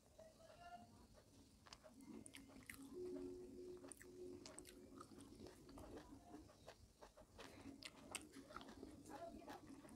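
Quiet, close-miked mouth sounds of a person chewing and biting food eaten by hand: many small sharp wet clicks. A faint steady low hum joins about two seconds in.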